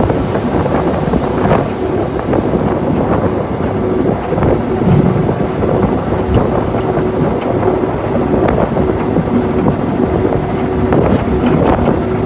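Sentinel diesel locomotive's Rolls-Royce engine running steadily under way, heard from inside the cab, with a steady droning hum and a few sharp clicks near the end.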